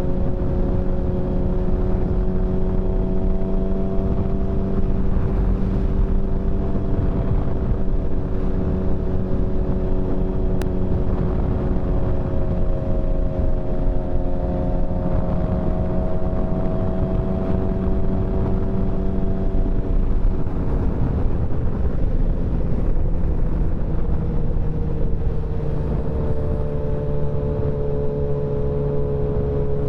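Motorcycle engine cruising at a steady speed, with wind rumble on the microphone. Its pitch drops slightly about two-thirds of the way through and settles lower.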